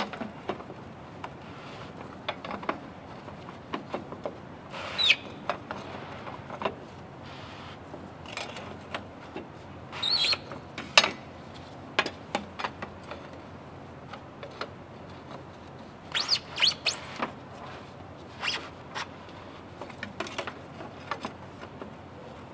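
Fuel filter housing cap on a DD15 diesel being tightened down with a wrench: scattered clicks and several short, high squeaks as the cap turns.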